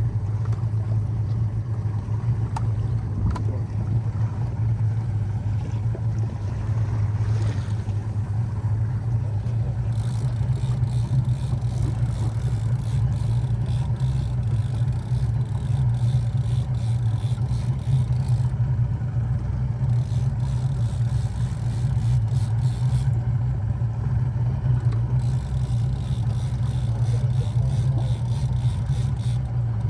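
Fishing boat's engine running steadily with a constant low hum, heard from on deck.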